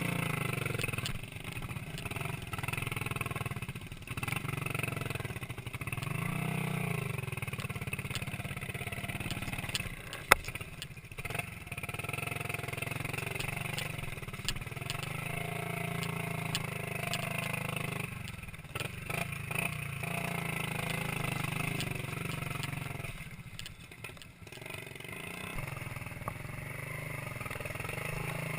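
Minsk 125cc two-stroke single-cylinder motorcycle engine running under way, its note easing off and picking up again several times as the throttle is closed and opened. A single sharp knock about ten seconds in.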